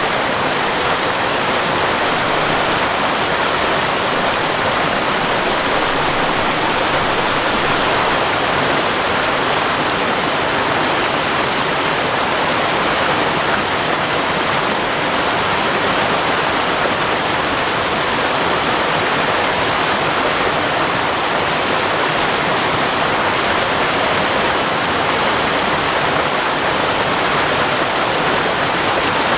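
A seasonal waterfall running after rain: a steady, even rush of falling water with no breaks.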